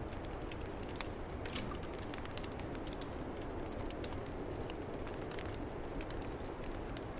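Wood fire crackling in a fireplace, with scattered sharp pops over the steady low rush of snowstorm wind.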